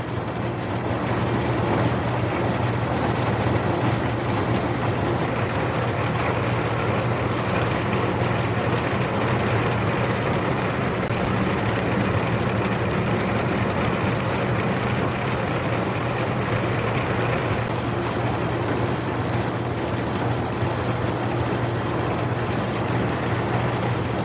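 Metal lathe running steadily, its motor and spindle giving a constant hum over even mechanical noise.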